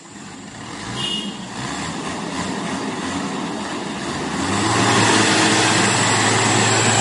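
Road vehicle on the move on a highway: engine and road noise grow louder as it gathers speed. A steady low engine hum comes in about four seconds in.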